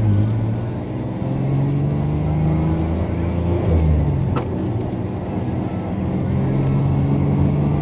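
1994 Ford F-150's engine pulling hard under acceleration through the gears of its five-speed manual, the revs climbing, falling at a gear change about three and a half seconds in, then climbing again.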